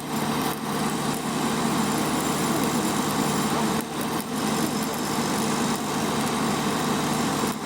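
Arc welding on steel plate: a steady hiss from the arc with a machine running underneath, dipping briefly a few times.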